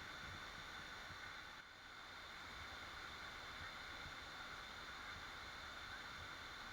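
Waterfall rushing in a steady, even roar of falling water, dipping briefly in level about one and a half seconds in.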